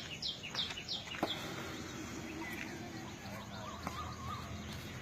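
A bird calling: a quick run of short, falling chirps, about three a second, that stops about a second in, followed by a few fainter chirps.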